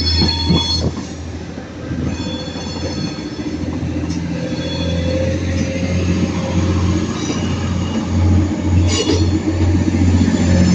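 Class 390 Pendolino electric train moving slowly through the platform, its wheels squealing on the rails in high thin tones that fade about a second in and come back fainter later, over a steady low rumble that pulses near the end.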